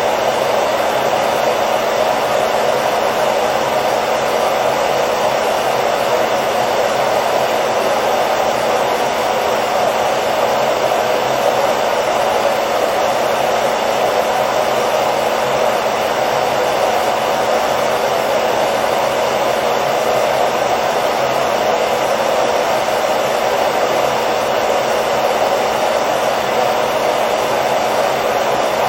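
Hair dryer running continuously at a steady speed: an even, unchanging blowing hum with a low whine.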